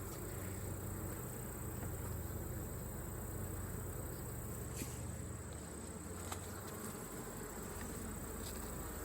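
Honeybee colony humming steadily from an opened hive, with a couple of faint clicks.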